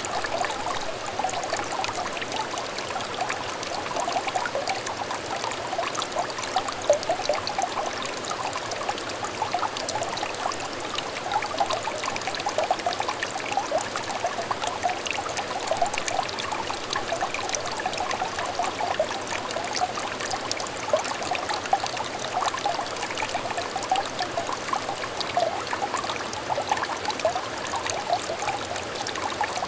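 Shallow stream trickling and babbling: a steady flow of small splashes and bubbling.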